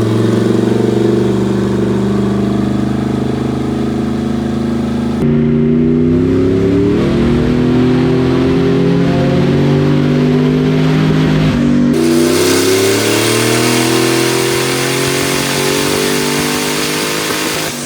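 Turbocharged V8 engine running hard under load, as on a dyno pull: a steady note at first, then, after two abrupt jumps in the sound, its pitch climbs steadily for several seconds at a time.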